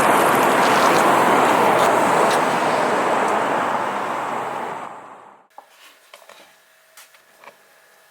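A loud, steady rushing noise that fades away and cuts off about five and a half seconds in, followed by a few faint clicks and knocks.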